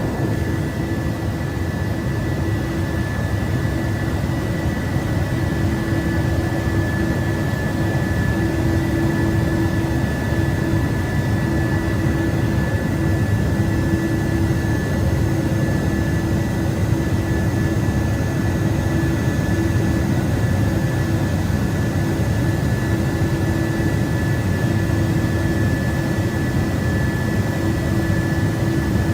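Steady drone of an aircraft in flight during air-to-air refuelling. A constant noise carries a steady high whine and a lower steady hum throughout.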